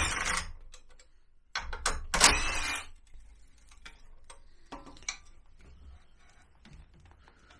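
Tools working loose the bolts holding a scooter's rear rack: two short bursts of metallic clattering and clicking, the second about two seconds in, followed by a few faint scattered clicks.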